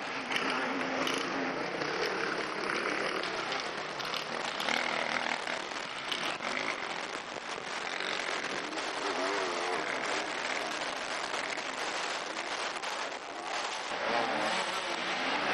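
Enduro motorcycle engines revving as riders climb a muddy slope, with the rear wheel spinning near the end.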